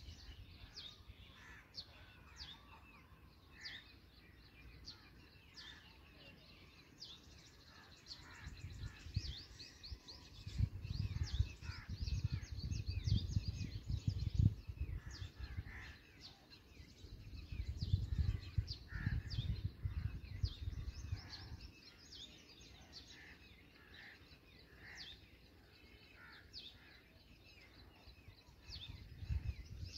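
Birds chirping: many short, high, falling chirps repeated rapidly and overlapping throughout. Bursts of low rumbling noise come and go, loudest in the middle.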